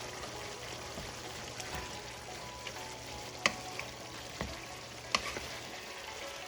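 Chicken and freshly added bell peppers frying in the pan with a steady sizzle while being stirred, the utensil knocking sharply against the pan twice.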